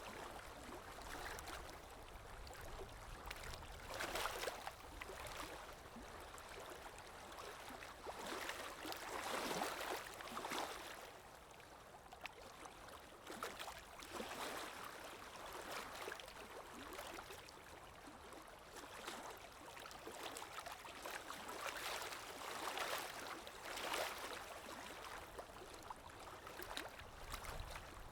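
Calm sea waves washing in, a soft rush of water that swells and falls back every few seconds.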